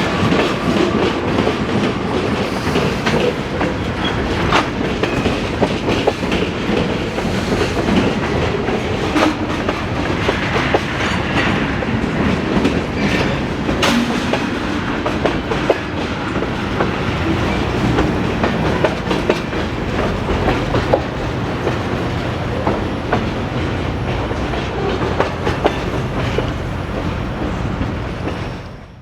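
Freight train cars rolling past with a steady clickety-clack of wheels over rail joints and frequent sharp clanks. The sound fades out at the very end.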